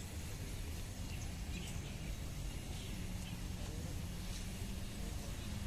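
Outdoor ambience: birds chirping faintly a few times over a steady low rumble.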